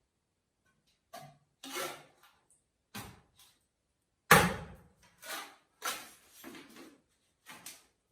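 A string of short knocks and scrapes from objects being handled and set down, about nine in all, with the heaviest knock about four seconds in.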